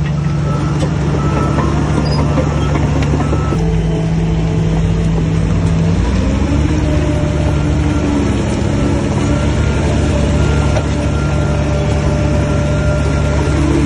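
Heavy diesel earthmoving machinery working: a loud, steady engine drone whose pitch shifts about three and a half seconds in and again about six seconds in, with a faint high beeping tone over it.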